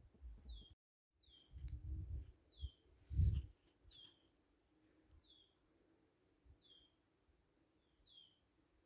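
A songbird repeating a two-note call, a short high note followed by a falling one, roughly every second and a half, over an outdoor background. Low rumbles swell around two and three seconds in, and the sound drops out briefly about a second in.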